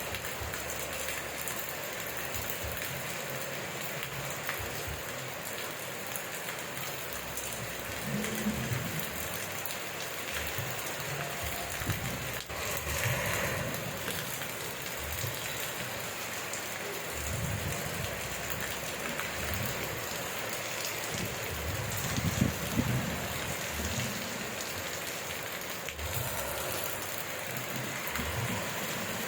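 Steady rain falling, an even hiss, with irregular low rumbles coming and going underneath.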